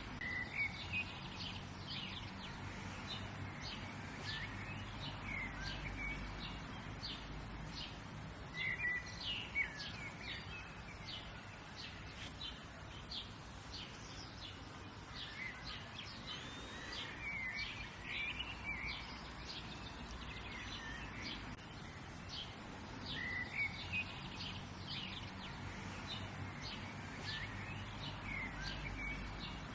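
Several birds chirping and calling over a steady background hum, with many short, quick notes and rising calls all through.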